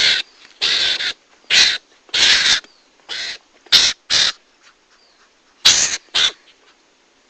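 Mongoose (garangan) lure call recording: harsh, raspy calls in short bursts, about nine in all, some in quick pairs, with a pause of about a second in the middle.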